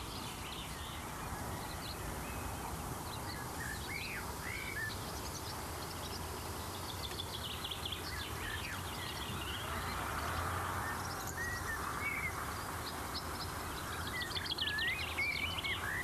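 Birds chirping and singing in scattered bursts of short rising and falling calls, over a steady hiss and low hum.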